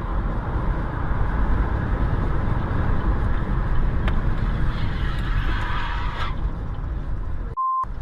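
Car driving noise: steady engine and road rumble. Near the end it cuts out briefly for a short, single-pitched beep.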